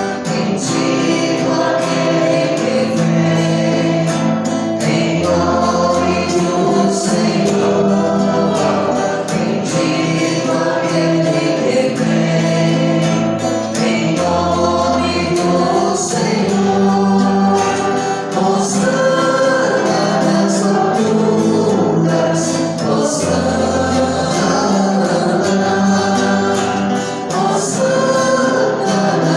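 Christian choir music: voices singing sustained lines over instrumental accompaniment, with bass notes and a steady, regular percussion beat.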